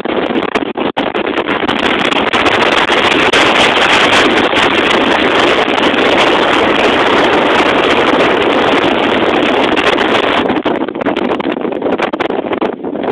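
Strong wind buffeting the camera's microphone: a loud, rough rushing that gusts up about two seconds in and eases near the end.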